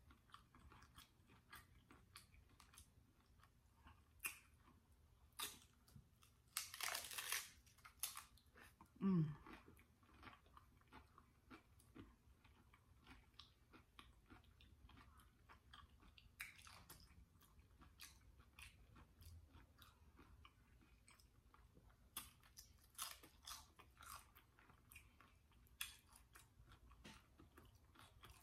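A person biting and chewing a taco close to the microphone, with crisp crunches of the shell and wet mouth clicks. The densest crunching comes about seven seconds in and again a few seconds before the end. A short hummed sound falling in pitch comes about nine seconds in.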